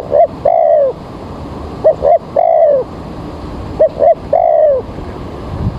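Spotted dove cooing its phrase three times, each two short coos followed by a longer, falling coo, about every two seconds.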